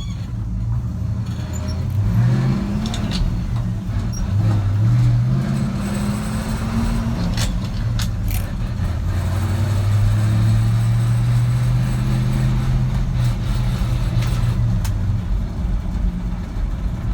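A 1964 Chevrolet C20 pumper fire truck's engine running and revved a few times. The pitch climbs about two seconds in and again around four to five seconds, is held up for several seconds past the middle, then settles back to idle near the end.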